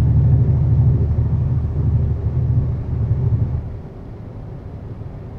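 Semi-truck's diesel engine running under load, heard from inside the cab as a loud, steady low drone. It drops off sharply nearly four seconds in, as the engine eases off.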